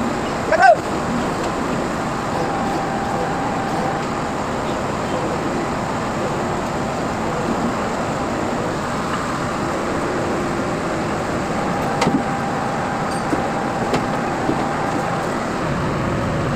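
Steady engine drone of heavy site machinery, with a faint steady whine and a few light clicks near the end.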